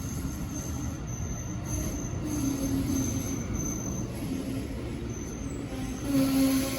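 Amtrak Northeast Regional passenger train moving on the rails: a steady low rumble with a thin, on-and-off wheel squeal. About six seconds in, a louder steady hum sets in.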